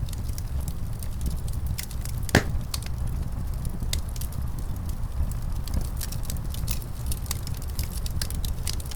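Wood fire crackling and popping in a fireplace, sharp irregular snaps with one louder pop about two and a half seconds in, over a steady low rumble of wind.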